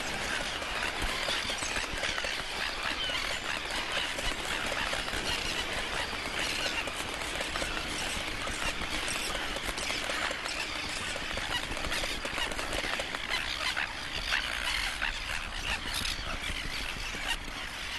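A colony of crested terns calling: many birds squawking at once in a dense, continuous din of overlapping harsh calls.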